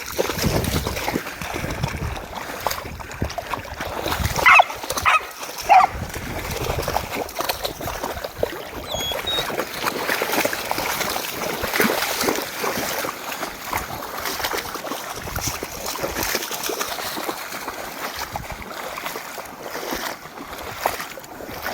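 Dogs running and splashing through shallow floodwater, a continuous scatter of splashes. About four to six seconds in, a dog gives a few short, high cries that fall in pitch.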